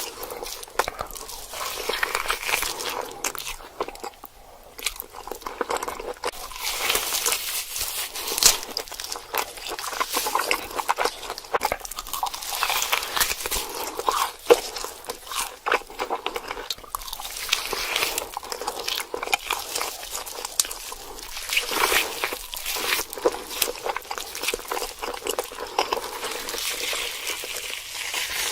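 Close-miked eating sounds of a mukbang: someone biting into and chewing crunchy food, with dense, irregular crunches and crackles throughout.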